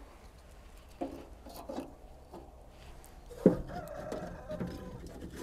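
Chickens clucking, with short calls about a second in and a longer drawn-out call starting about three and a half seconds in.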